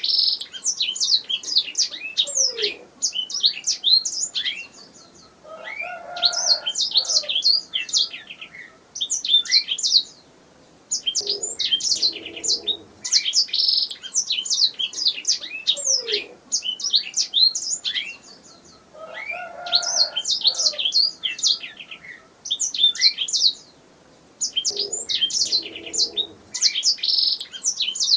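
Domestic canary singing fast, high-pitched trills in bursts of several seconds, separated by short pauses.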